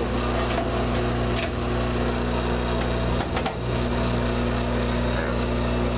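2006 Broan bathroom exhaust fan running with a steady motor hum and a rattle. A click about a second and a half in, and a couple of light knocks a little past the middle.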